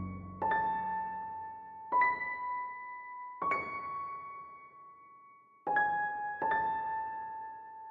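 Background music: slow, single electric-piano notes, about five struck in turn, each ringing out and fading before the next.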